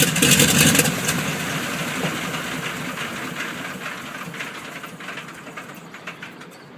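Pratt & Whitney 450 hp radial engine on a Twin Beech, running hard and then pulled back about a second in. It then slows, its firing beats spacing out as the sound fades steadily.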